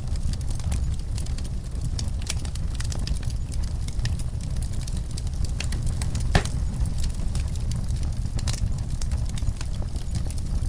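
Wood fire burning in a fireplace: a steady low rumble of flames with frequent irregular crackles and snaps, one louder pop about six seconds in.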